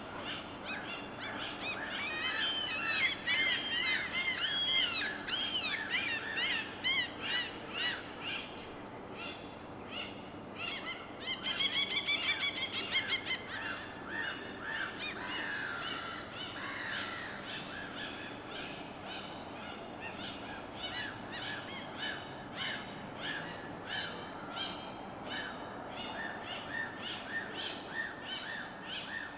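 Birds calling and chirping in a dense chorus of short repeated notes. A run of quick rising-and-falling chirps comes a couple of seconds in, and a louder rapid call near the middle.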